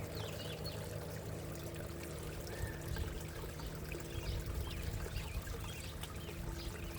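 Water steadily trickling and pouring into a backyard koi pond, with a faint steady low hum underneath.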